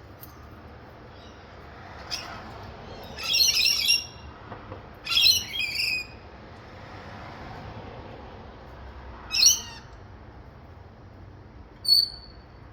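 Wild birds calling: a run of loud, harsh screeching calls in groups of a second or so, then a single screech later on and a short high note near the end.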